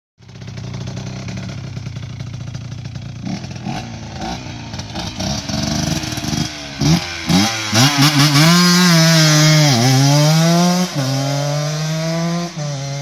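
Cagiva Mito Mk1 125's two-stroke single-cylinder engine, with a modified cylinder, idling with short throttle blips, then accelerating hard away through the gears: the pitch climbs, drops back at each of several gear changes, and climbs again.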